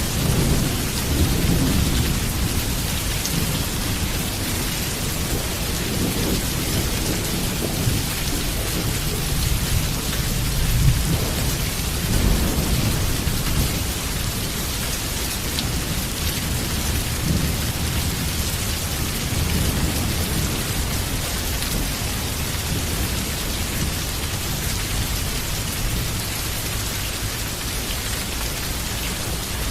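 Heavy rain falling steadily, with low rolling thunder rumbles that swell and fade several times, strongest near the start and about a third of the way through.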